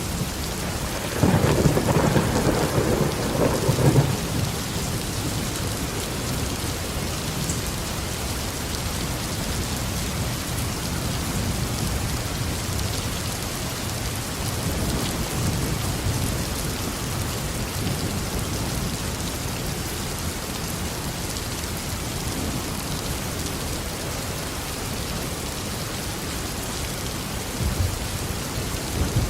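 Steady tropical rain falling, with a loud thunderclap rumbling from about a second in until about four seconds in, after which the rain continues on its own.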